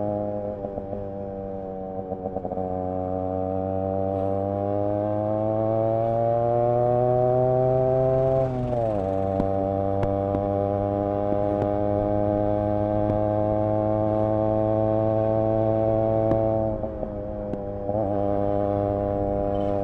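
Yamaha RX 100's single-cylinder two-stroke engine and exhaust running under way, its pitch climbing gradually for a few seconds, then dropping sharply near the middle and holding steady, with brief dips in pitch near the end.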